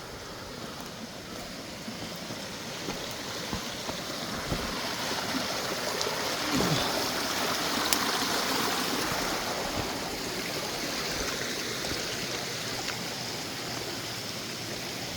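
Mountain creek water rushing over rocks, growing louder toward the middle and then running steadily, with a few faint knocks.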